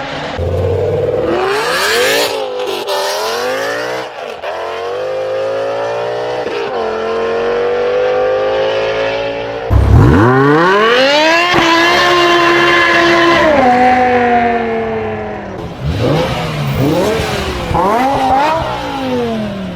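BMW M5 E60's 5.0-litre V10 accelerating, its pitch climbing steadily for several seconds. About ten seconds in a new pull starts abruptly, climbs, holds and steps down once at an upshift. It ends in several short, quick revs rising and falling.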